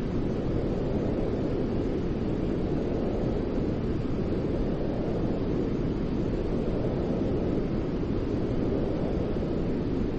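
Steady white noise with a deep, even rush, heaviest in the low range and unchanging throughout.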